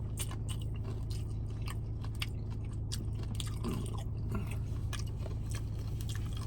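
Close-up chewing of loaded nacho tortilla chips, with many sharp crunches throughout, over a steady low hum.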